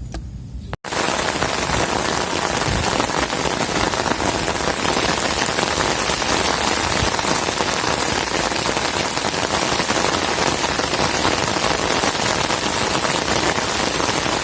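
Heavy rain pouring down, a dense steady hiss of drops that comes in abruptly just under a second in.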